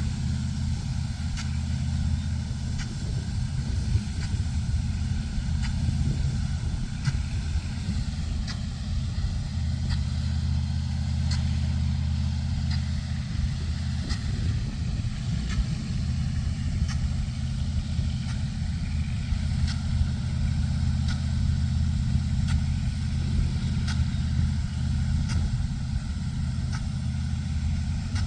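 Large engine running steadily at a constant speed, with no revving, and faint irregular clicks above it.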